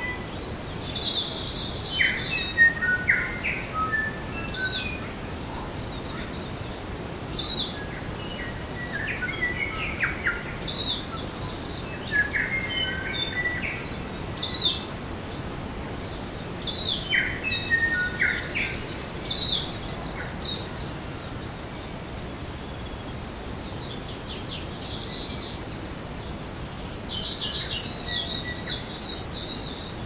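Songbirds singing in forest: short bursts of chirps and twittering phrases every couple of seconds, with a lull about two-thirds of the way through, over a steady background hiss.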